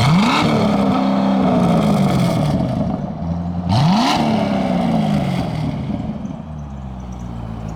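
2008 Corvette LS3 6.2-litre V8, running through its factory NPP exhaust, revved twice. Each time the engine note climbs quickly, then falls back slowly. After the second rev it settles to a steady idle near the end.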